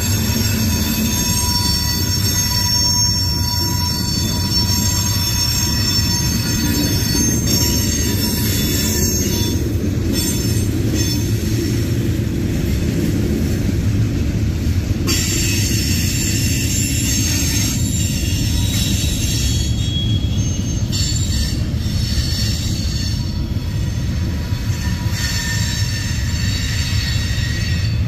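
Freight cars of a CSX manifest train rolling past, with a steady low rumble from the wheels on the rails and a high, drawn-out squeal from the wheel flanges.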